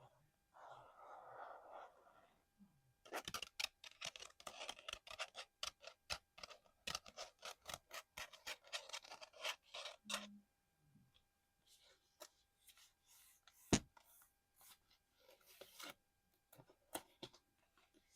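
Close-up ASMR tapping and scratching on small hard collectibles. A quick run of sharp clicks and scratches starts about three seconds in and lasts about seven seconds. Sparser taps follow, with one louder sharp click past the middle.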